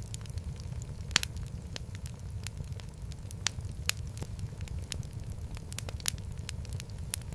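Wood fire crackling: a steady low rumble of flames with irregular sharp pops and snaps, a louder pop about a second in.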